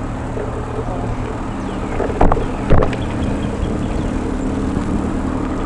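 Steady low rumble and wind on the microphone while riding a bicycle, with two sharp knocks about half a second apart a little over two seconds in.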